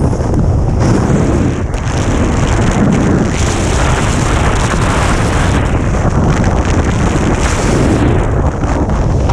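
Strong wind blowing across a GoPro's microphone: a loud, continuous rushing noise that swells and eases.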